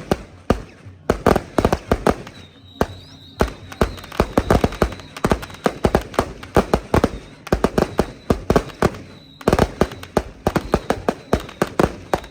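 Strings of firecrackers going off in rapid, irregular bangs, with short lulls about a second in and again about nine seconds in.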